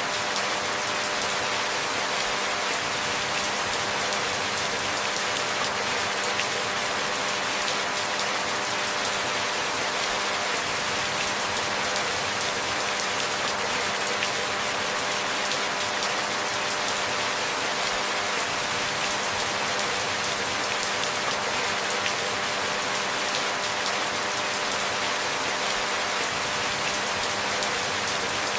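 Steady rainfall: a dense, even patter of drops with no breaks or changes.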